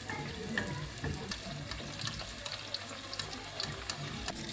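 Water running with small irregular clicks and light clatter.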